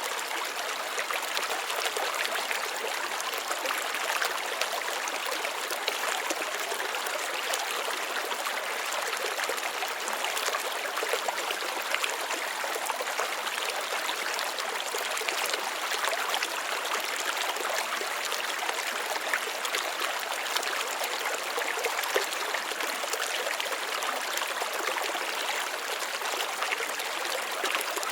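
Water trickling and splashing steadily, a small flow of running water.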